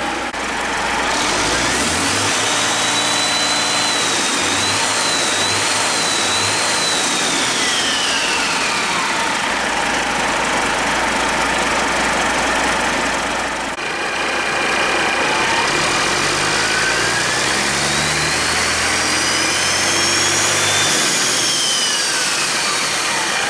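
Detroit Diesel Series 60 12.7-litre inline-six turbodiesel running and being revved up and let back down twice, a high whine rising and falling in pitch with each rev.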